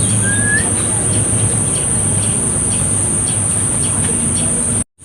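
A single short rising bird chirp about half a second in, over a loud steady background of hiss, a constant high-pitched whine and a low hum, with faint regular ticking. The sound cuts out completely for a moment near the end.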